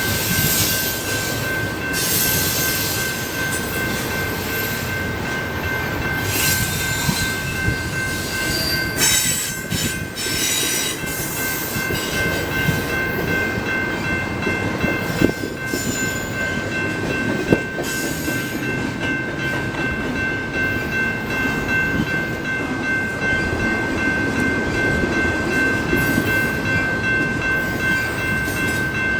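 Intermodal container train cars rolling past at speed: a continuous rumble and rattle of steel wheels on rail, with a steady high ringing tone throughout and a couple of sharp clanks past the middle.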